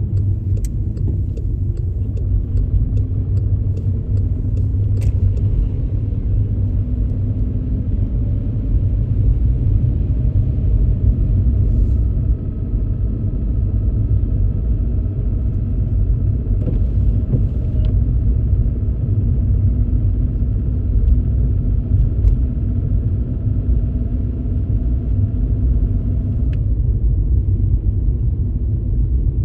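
Car driving on a rain-soaked road: a steady low rumble of tyres and engine, with a few faint ticks in the first five seconds.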